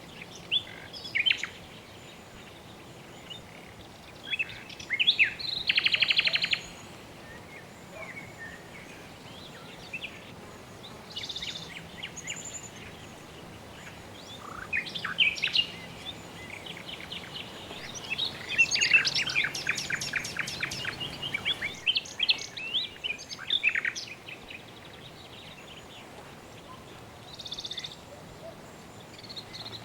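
Several birds chirping and calling, with quick rattling trills about five seconds in and again in a busier spell a little past the middle, over a faint steady background hiss.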